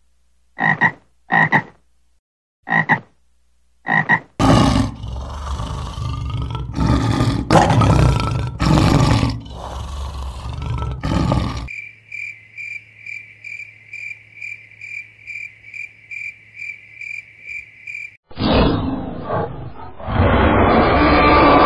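A run of different animal calls. First come four short high-pitched calls, then a loud, rough stretch of calling. After that a steady high-pitched call pulses about three times a second for some six seconds, and near the end a second loud, rough call starts.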